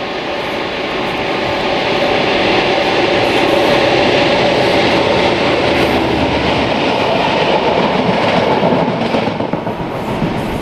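A train passing close by: a steady rush of wheel and rail noise that swells over the first few seconds, holds, and eases off near the end.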